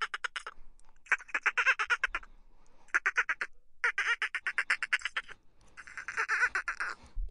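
An animal giving rapid, chattering pulsed calls, about ten pulses a second, in five bouts of roughly a second each with short pauses between.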